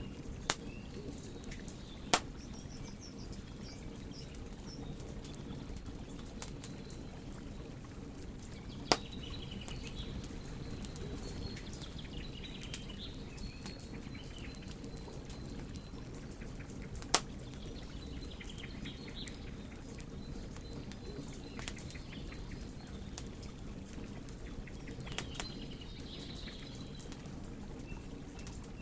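Wood fire burning: a steady low rush with a scatter of small crackles and four sharp, loud pops from the burning wood. Faint high chirps come and go in the background.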